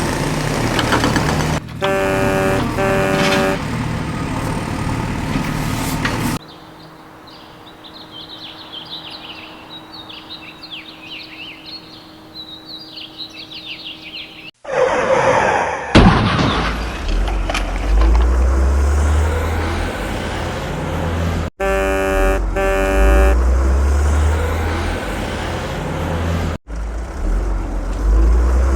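Vehicle horn sounding two short toots, heard twice, over loud engine noise. A quieter stretch in the middle carries faint high chirping.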